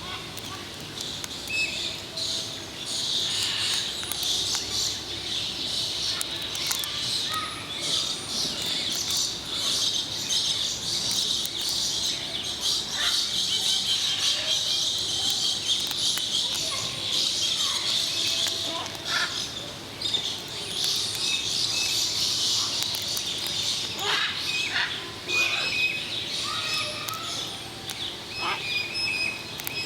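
Many birds chirping together: a dense, steady high chatter with short separate calls standing out over it, and a few small clicks.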